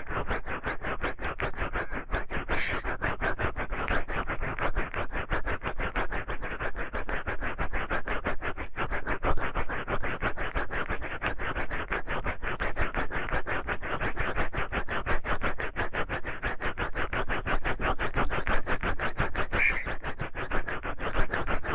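Ear pick scraping in quick, even strokes, a continuous 'kari-kari' scratching of ASMR ear cleaning.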